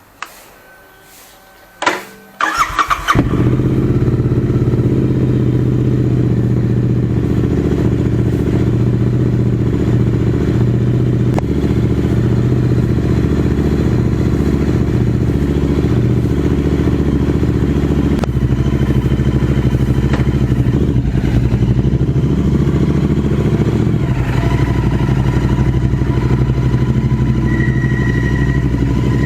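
Royal Enfield Continental GT 650's parallel-twin engine started with a click and a brief crank about two seconds in, then idling steadily through an AEW TE 102 aftermarket exhaust with its dB killer removed.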